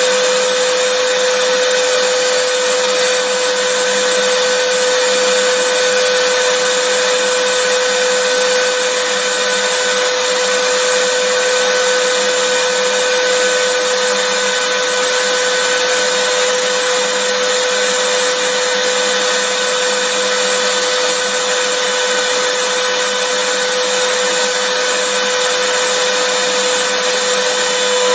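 Vacuum cleaner running steadily: a constant whine over a rush of airflow, with no change in pitch or level.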